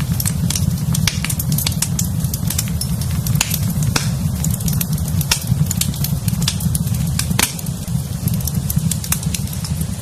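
Wood fire in a fireplace crackling: irregular sharp pops and snaps, several a second, over a steady low rumble of the burning fire, with one louder pop about seven and a half seconds in.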